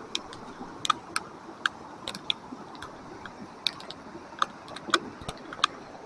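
Flooded creek rushing steadily, with sharp irregular clicks and knocks of rocks and boulders rolling along the creek bed under the water, a few each second.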